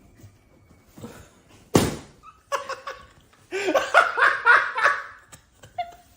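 A sharp knock just under two seconds in, then a person laughing in short choppy bursts for about two and a half seconds.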